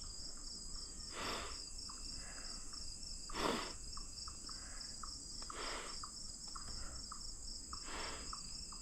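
Late-summer insect chorus: a steady high buzz with a fast pulsing trill just beneath it. A soft whoosh recurs about every two seconds.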